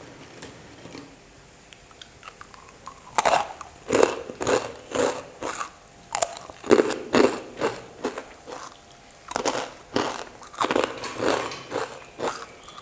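Someone biting and chewing freshly fried murukku, a crisp rice-flour and beaten-rice snack. A run of short crunches begins about three seconds in, a few a second: the murukku is fried crisp.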